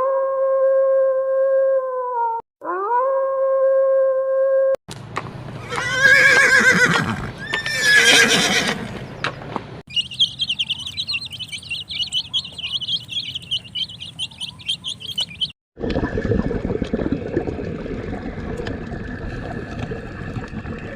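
A string of separate animal sound clips. First come two drawn-out, steady calls. Then a horse whinnies twice, then a high warbling sound, then a noisy stretch near the end.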